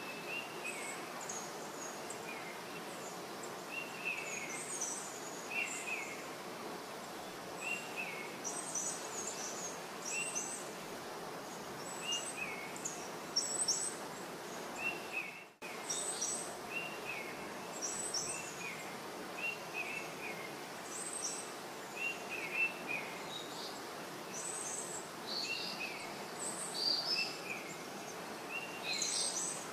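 Birds chirping in short calls every second or two over a steady outdoor background hiss, which drops out briefly about halfway.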